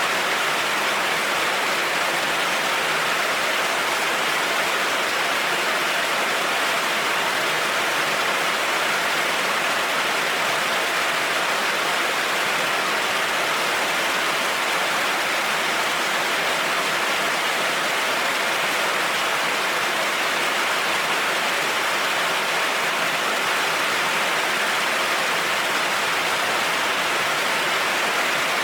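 Heavy rain falling steadily: a constant, even hiss with no thunder or separate drips standing out.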